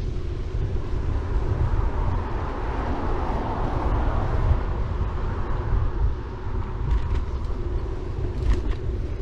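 Riding noise from a city bike: wind buffeting the GoPro's microphone and tyres rolling on the road, a steady low rumble with a hiss that swells and fades about three to five seconds in. A few faint clicks near the end.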